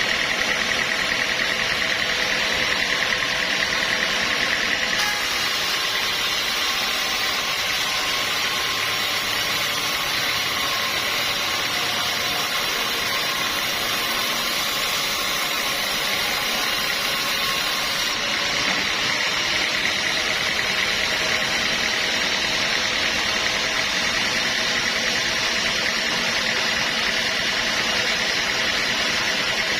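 Sawmill machinery running steadily with a continuous mechanical whine and hum; its tone shifts for a stretch from about five to eighteen seconds in.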